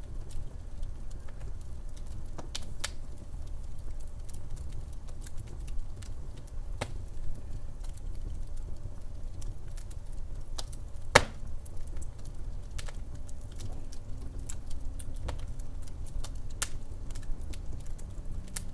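Wood fire crackling, with irregular sharp pops and snaps over a steady low rumble of the burning logs; one louder pop about eleven seconds in.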